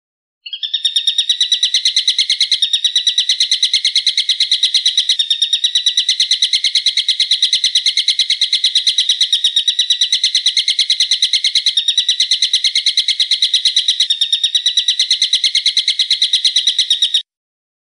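A bird's sharp call note repeated very rapidly without pause for about sixteen seconds, then cutting off abruptly. This is an edited bird-song training recording of the kind played to caged songbirds to teach them calls.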